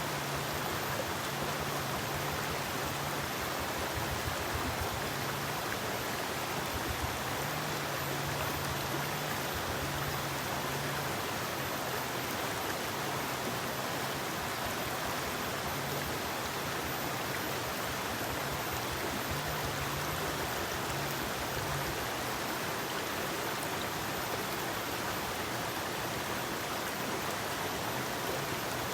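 Forest river flowing over rocks, a steady rushing of water with no breaks.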